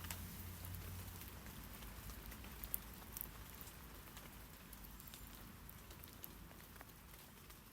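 Rain falling on tree leaves: a steady hiss of light rain with scattered drip ticks, a couple of louder drops about three seconds in, slowly growing quieter.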